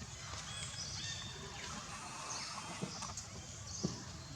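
Outdoor background noise with short, high chirping calls every second or so and two brief knocks about three and four seconds in.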